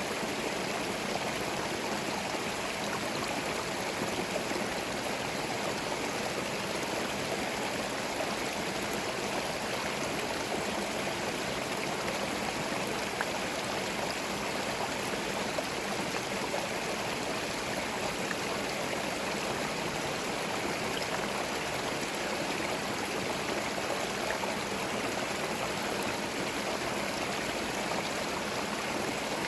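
Forest stream flowing over stones, a steady babble of running water.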